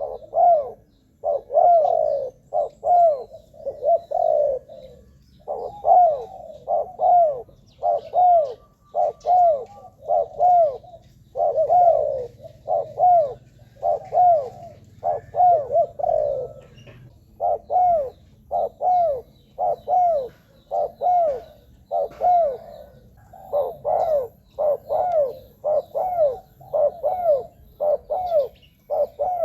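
Spotted dove cooing over and over: a long series of short, arched coos at about one a second, in loose groups with brief gaps.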